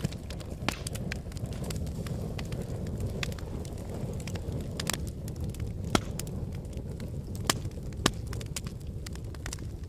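Wood fire burning in a fireplace: a steady low rush of flames with scattered crackles and pops, the sharpest pops about six, seven and a half and eight seconds in.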